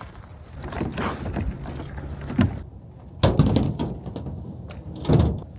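Vehicle doors and gear being shut and handled: a few dull thumps and knocks, the loudest about three seconds in and another near the end.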